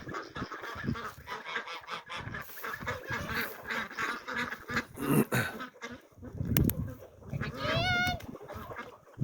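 A large mixed flock of geese, ducks and chickens calling at feeding time, with geese honking over a dense chatter of other birds. One clear, drawn-out goose honk stands out about eight seconds in.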